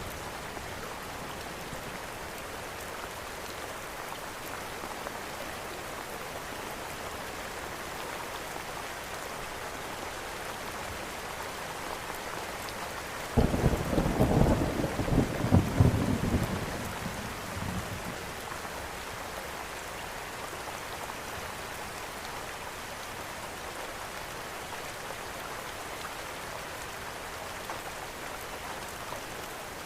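Steady rain falling, with a clap of thunder that breaks in suddenly about halfway through and rumbles away over some four seconds.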